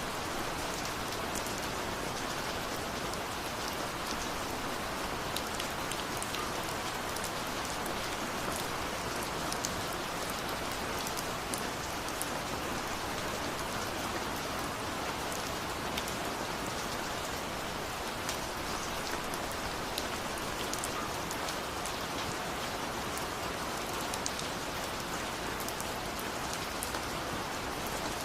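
Steady rain falling, an even hiss with scattered drop ticks on top and no thunder.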